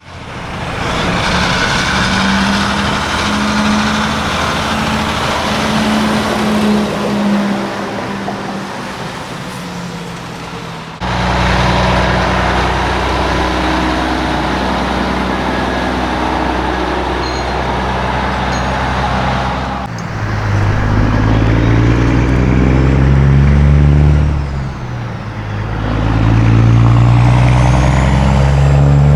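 Diesel semi-truck engines running, with the sound changing abruptly to a different truck about 11 and 20 seconds in. Near the end the engine rises in pitch twice as it accelerates.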